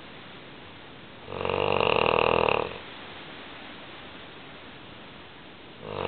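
English Mastiff snoring loudly in its sleep: one long snore about a second in and another starting near the end, with a quieter stretch between.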